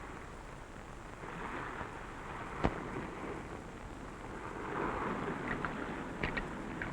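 Sea surf washing and breaking on a rocky shore, swelling and fading in waves, with a single sharp knock a little under three seconds in.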